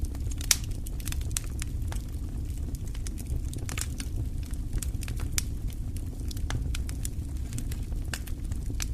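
Wood fire crackling, with many irregular sharp snaps and pops over a steady low rumble.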